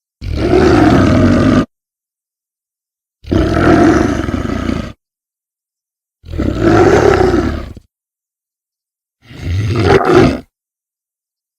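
Edited big-cat roar sound effect, like a black panther's roar, played four times with dead silence between. Each roar is a deep growling call of a second or so, and the last is shorter with a click in it.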